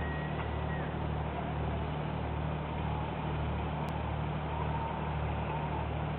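Boat engine running steadily with a low, slowly pulsing hum.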